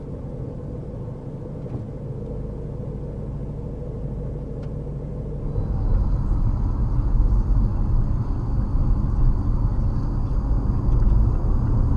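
Steady low road and engine rumble of a moving car, heard from inside through a dashboard camera. It grows louder and rougher about halfway through.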